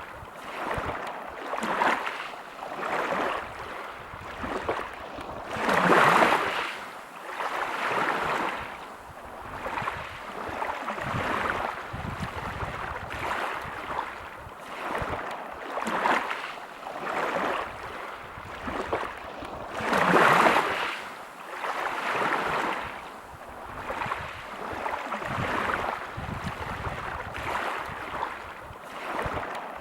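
Sea waves breaking and washing over a pebble beach: a hissing rush that swells and fades every second or two, with two bigger surges about six and twenty seconds in.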